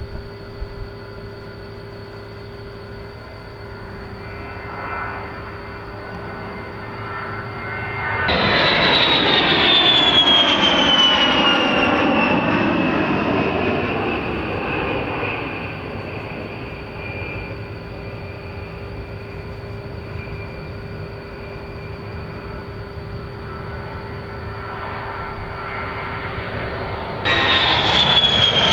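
Jet aircraft passing close. A steady engine hum and whine sits underneath. About eight seconds in the sound rises suddenly and becomes loud, and a high whine slides down in pitch as the jet goes by, then slowly fades. Near the end a second jet pass starts abruptly with the same falling whine.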